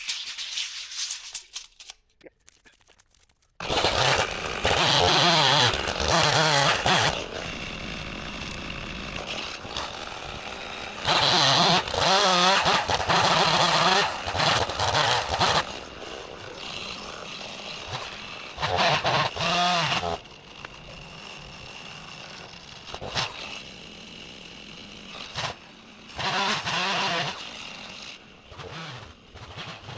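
Chainsaw bucking a felled tree: it starts up about three and a half seconds in, then runs at full throttle in four cutting stretches with a wavering pitch, dropping back to a lower running sound between cuts.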